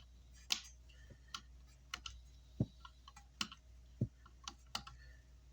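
Flush cutters snipping component leads close to a circuit board: about nine short sharp clicks at irregular intervals, over a faint steady hum.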